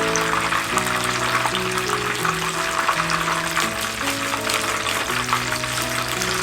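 Food frying in hot oil in a pan, a steady crackling sizzle, with background music of slow held notes underneath.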